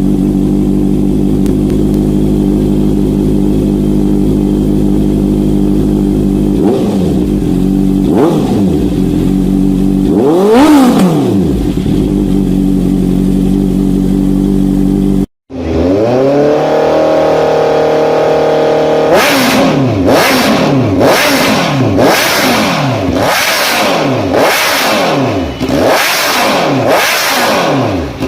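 Honda CBR650F inline-four motorcycle engine idling through its exhaust and blipped three times, the third rev the highest. After a short break, another recording of the engine idles and is then revved in quick blips about once a second.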